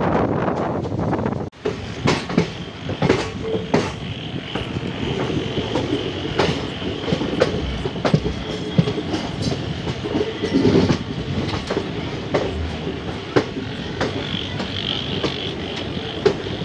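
Passenger train running along the track, heard from a moving coach: wheels clattering over rail joints in irregular knocks over a steady rush of running noise, with a faint steady high whine. The sound briefly drops out about a second and a half in.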